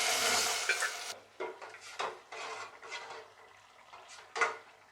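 Hot oil tempering of mustard seeds and curry leaves sizzling, cutting off about a second in, followed by a spoon stirring and scraping in the pot in several separate strokes, with one louder clink near the end.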